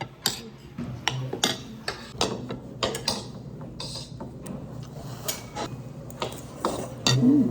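Dishes and cutlery clicking and clinking in quick, irregular knocks as people eat, with a louder burst near the end.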